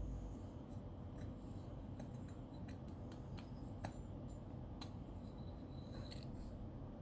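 Small taps, clicks and light scraping from a Yixing clay teapot being handled, with one sharper tick about four seconds in and a brief faint ring near the end.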